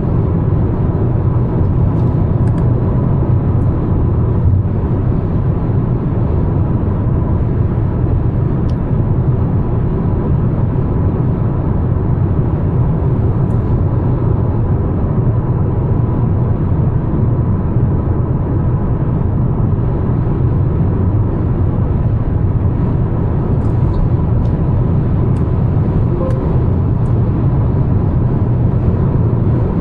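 A 2025 Mazda CX-5 with a naturally aspirated 2.5-litre e-SKYACTIV G petrol engine, driving at an even pace: a steady low rumble of engine and tyre noise on the road, with a faint steady whine above it.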